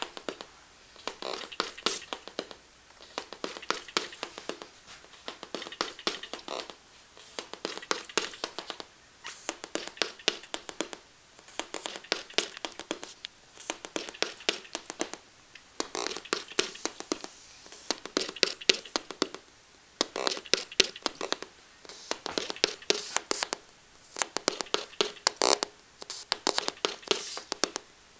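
Small loudspeakers playing a rapid crackling, clicking sound in bursts about a second and a half long, repeating roughly every two seconds.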